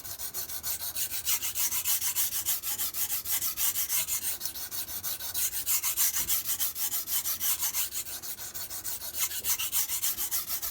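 Steel blade of a MAC chef knife stroked rapidly back and forth on a sharpening stone: a rhythmic gritty scraping at about four strokes a second, which stops suddenly near the end.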